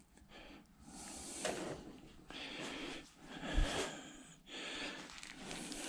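A person breathing, several soft breaths of about a second each.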